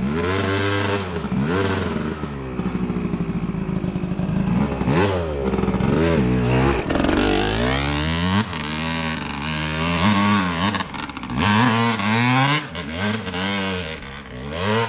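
Dirt bike engine revving up and down again and again, the pitch rising and falling roughly every second, as it is worked through the gears.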